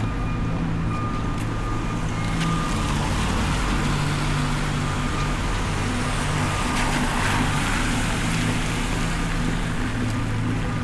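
Street traffic on a wet road: a vehicle passes with a tyre hiss that swells and fades around the middle, over a steady low engine hum.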